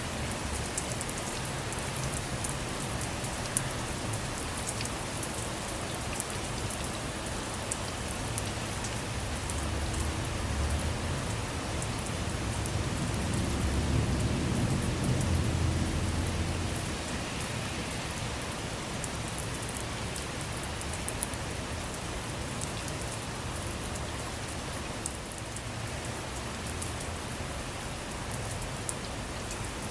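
Steady rain with many individual drops tapping. A low rumble of distant thunder swells and fades between about ten and seventeen seconds in.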